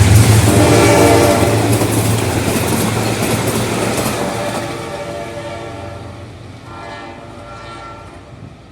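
General Electric diesel locomotive and its train passing and moving away. The engine and the wheels on the rails fade steadily, and the horn sounds about a second in and again near the end.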